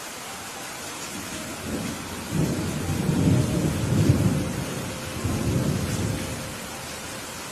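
Steady heavy rain with a roll of thunder that builds about a second and a half in, rumbles loudest through the middle, and fades away near the end.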